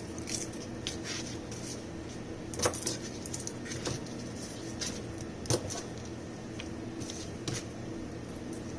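Scattered light clicks and knocks of kitchen utensils being handled over a steady low hum. The two sharpest knocks come about two and a half and five and a half seconds in.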